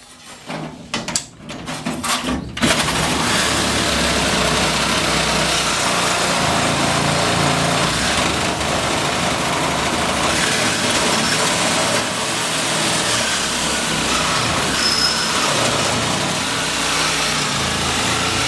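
Angle grinder with a cut-off wheel cutting through the sheet metal of a pickup box: a few short bursts in the first couple of seconds, then a steady, loud cut.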